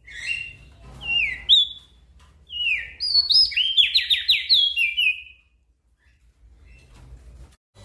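A small songbird singing: a string of short, sharp downslurred whistled notes that quickens into a rapid run of notes about halfway through, then breaks off a couple of seconds before the end.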